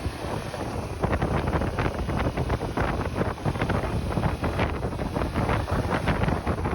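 Wind buffeting the microphone of a moving motorcycle in rapid, irregular gusts, over a steady low rumble of engine and road.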